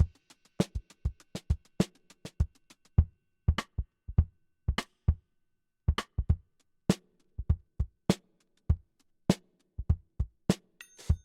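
Hip-hop drum pattern on EZDrummer's sampled drum kit: kick drum strokes interleaved with snare and hi-hat hits, dry and in a loose groove with short gaps between phrases.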